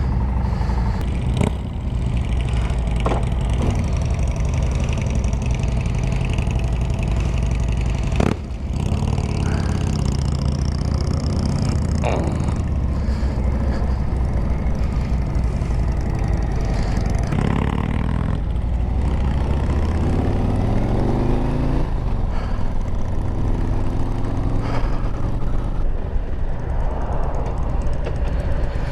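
Harley-Davidson Road Glide V-twin engine running as the motorcycle rides off, rising in pitch as it accelerates twice in the second half, with a few short knocks.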